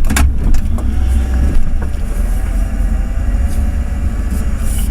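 Ford F-350 pickup truck driving, a steady low rumble of engine and road heard from inside the cab, with a couple of sharp knocks just after the start.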